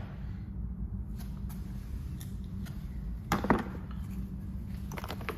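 PDR hand tools being picked up and set down: a few light clicks and a short knock about three and a half seconds in, over a steady low hum.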